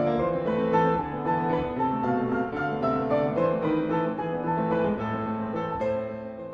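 Background piano music, a flowing run of notes, starting to fade out near the end.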